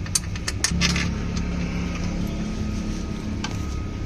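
Honda Activa scooter's single-cylinder four-stroke engine running steadily, a little stronger from under a second in, with a few sharp metallic clicks in the first second.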